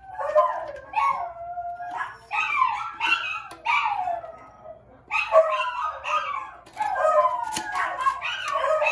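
Dogs howling and whining in repeated rising and falling calls, with a short lull about halfway through.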